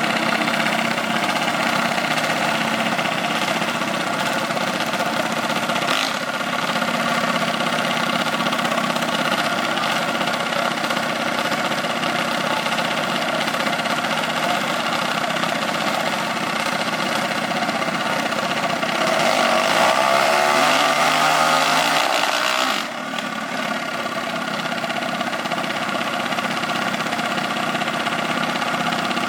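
Engine idling steadily. About nineteen seconds in it revs louder with its pitch gliding up and down, then drops off suddenly and settles back to the idle drone.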